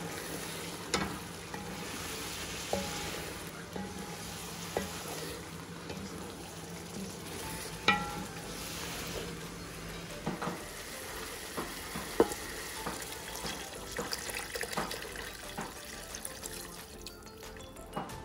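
Chickpea masala sizzling in a pot while a wooden spatula stirs it, with scattered sharp knocks of the spatula against the pot, loudest about 8 and 12 seconds in.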